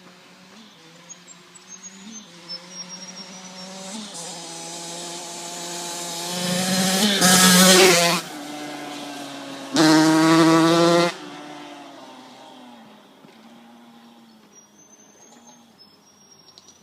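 Yamaha YZ85 two-stroke dirt bike riding past: its engine note builds as it approaches, is loudest in two short stretches with a sudden drop between them, then fades away.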